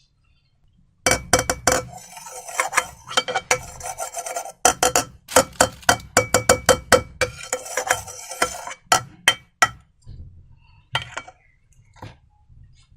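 A utensil stirring in a cup, clinking and scraping against its sides in quick, ringing runs, then a few separate clicks near the end.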